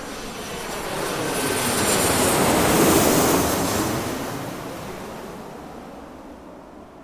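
Airplane passing by: engine noise swelling to a loud peak about three seconds in, then fading away.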